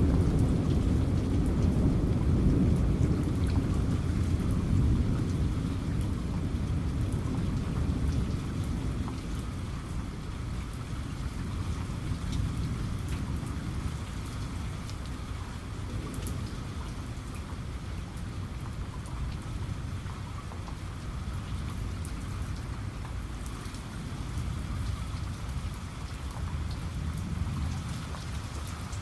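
Rain falling steadily, with scattered drop ticks, under a low rumble of thunder that dies away over the first several seconds.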